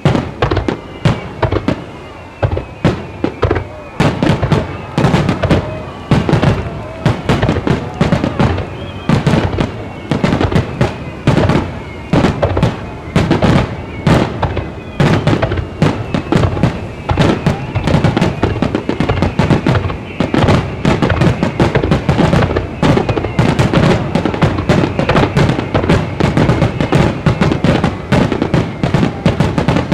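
Japanese aerial firework shells bursting in a dense, rapid barrage, several bangs a second without a break, with thin falling whistles through the first half.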